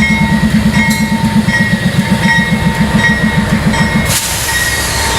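A train close by: a fast, even, low pulsing that stops abruptly about four seconds in, followed by a burst of hiss.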